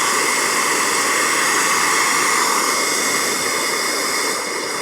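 Handheld hair dryer running steadily, a loud even rush of air with a faint whine in it.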